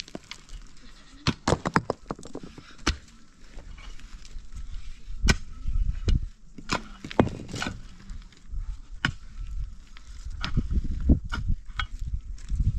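A series of irregular sharp strikes, like chopping or hacking at wood, spaced unevenly, over a low rumble.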